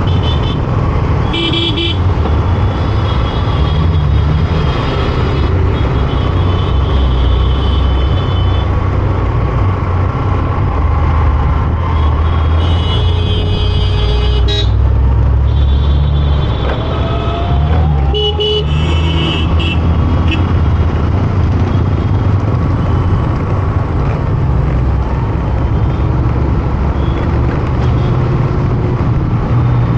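Busy road traffic heard from a moving motorcycle: a steady low rumble of engines and road noise, with vehicle horns honking several times, about a second in, around the middle and again a little later.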